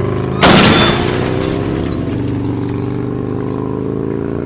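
An engine running steadily, with a loud sudden burst of noise about half a second in that lasts about half a second.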